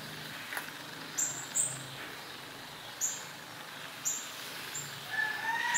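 Small birds chirping nearby: short, very high notes about once a second, with a longer call near the end that rises and then falls.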